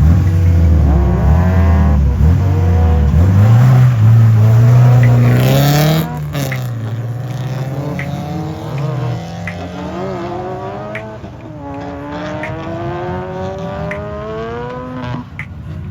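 Car engine revving hard on track, its pitch climbing and falling repeatedly as the car drifts. About six seconds in it drops to a quieter, lower-revving note that keeps rising and falling.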